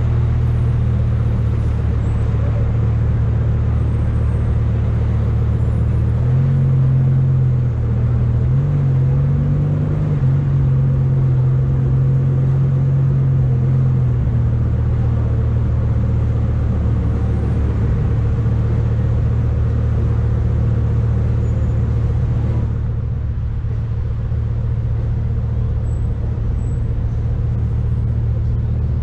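Lamborghini Huracán's V10 engine running at low revs as the car crawls along, a steady low drone. The pitch lifts a little for several seconds about a quarter of the way in, then settles back.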